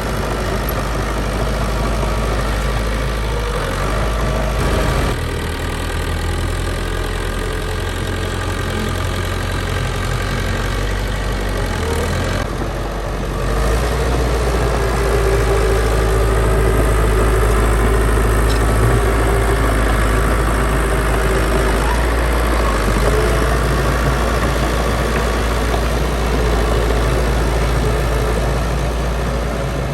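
Heavy diesel engine of earthmoving machinery running steadily. Its note shifts about five seconds in, then dips briefly around twelve seconds in before running louder.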